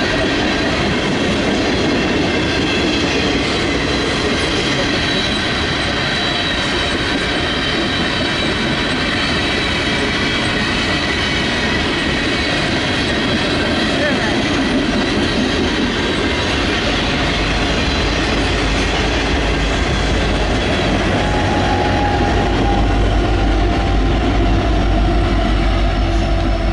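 Freight train of boxcars rolling past close by: steel wheels clattering over the rails, with thin steady high-pitched tones from the wheels. In the last third a deep rumble builds as Union Pacific EMD SD70ACe diesel-electric locomotives come alongside.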